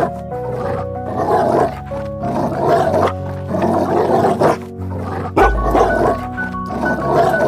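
Background music of sustained notes, with wolves growling over it in about five rough growls roughly a second and a half apart.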